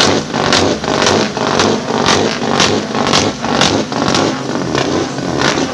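A truck engine running loud, with sharp regular pulses about twice a second.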